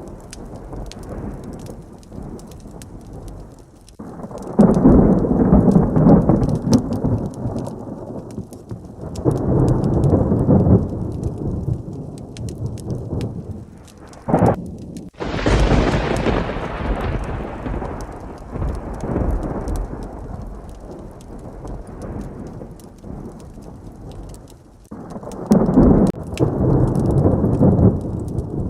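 Steady heavy rain with repeated low rolls of thunder. About halfway through comes a sharp, close thunderclap that rumbles away over several seconds.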